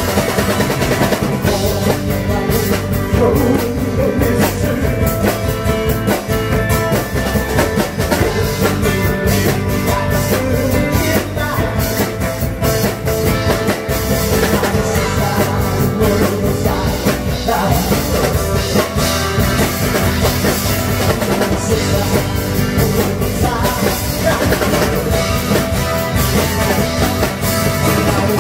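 Live band music with a drum kit playing a steady rock beat under sustained instruments.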